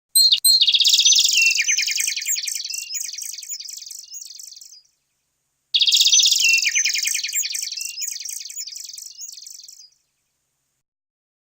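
Songbird chirping: a rapid trill of high chirps that fades over about four and a half seconds, then the same phrase again after a second's pause, with dead silence around it.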